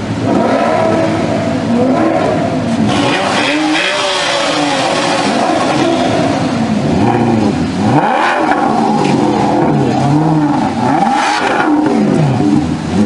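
Alfa Romeo 8C Spider's 4.7-litre V8 revved repeatedly while standing still, its pitch climbing and falling back several times.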